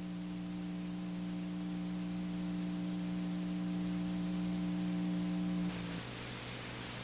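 A steady hum of a few fixed pitches over a hiss. About six seconds in the hum cuts off suddenly, leaving a louder hiss with a lower, fainter hum.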